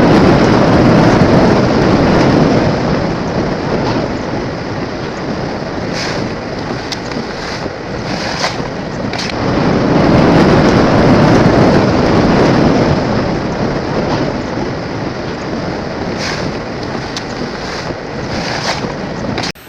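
Strong storm wind buffeting the microphone: a loud rushing noise that swells twice and is broken now and then by short sharp crackles.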